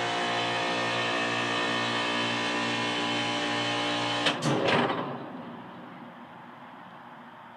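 Air-conditioning unit running with a loud, steady hum, then about four seconds in a short loud clatter as it cuts off and the hum dies away to a faint hiss: the unit shutting down in one of its repeated on-off cycles.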